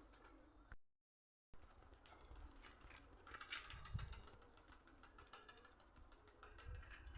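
Faint, irregular clicking and tapping, with a few soft low thuds, broken by a moment of total silence about a second in.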